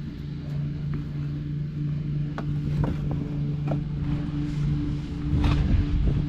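Dirt being scraped and pushed into holes with a hand tool, in scattered short scrapes with a louder scraping stretch about five and a half seconds in, over a steady low motor hum.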